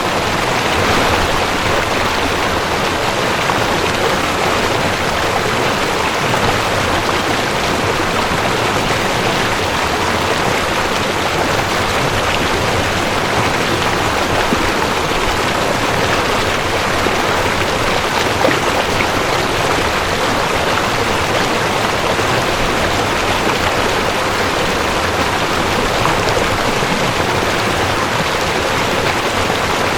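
Mountain stream rushing over rocks, a steady full-bodied water noise with no breaks.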